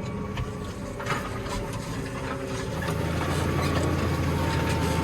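New Holland T7220 tractor's six-cylinder diesel engine running steadily under load while pulling a plough up a hill; about three seconds in it grows louder and deeper.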